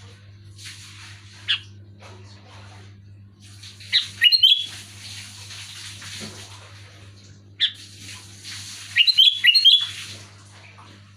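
Sooty-headed bulbul (kutilang) calling in short, loud phrases of quick gliding whistled notes: one about a second and a half in, a cluster around four seconds, one near eight seconds and a quick run of notes around nine to ten seconds. A faint hiss and a steady low hum lie underneath.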